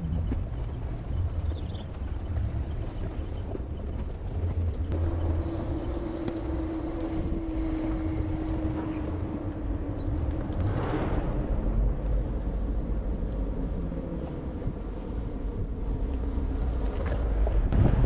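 Ram 1500 Rebel pickup driving slowly on a rough mountain trail: a steady low rumble of engine and tyres, with wind on the microphone. A steady hum joins in from about five seconds in until about twelve seconds, and there is a brief rushing surge around eleven seconds.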